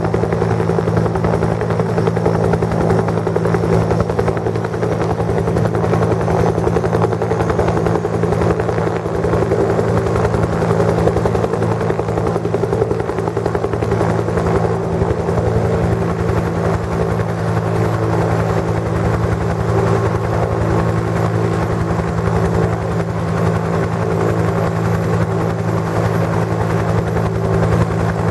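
Brazilian Air Force UH-1H Huey helicopter running with its rotor turning, a steady rapid blade beat over the engine's constant drone.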